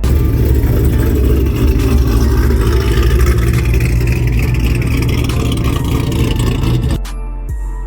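A vehicle engine running loud and deep, cutting off abruptly about seven seconds in.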